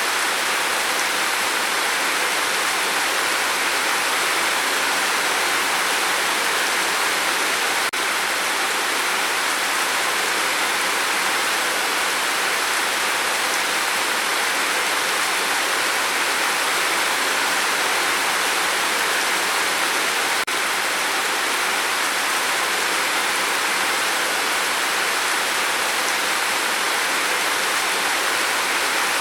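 Steady rain falling, a constant, even hiss of water with no single drops standing out. Twice, about eight and twenty seconds in, the sound briefly dips.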